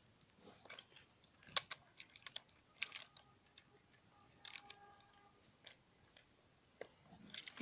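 Small plastic toy building bricks being handled, giving a scattering of light clicks and clacks, the sharpest about one and a half seconds in.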